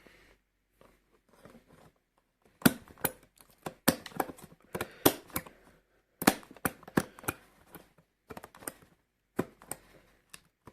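Packaging of a computer mouse being opened by hand: bursts of sharp clicks, crinkling and scraping, busiest in the middle of the stretch, then a few scattered clicks.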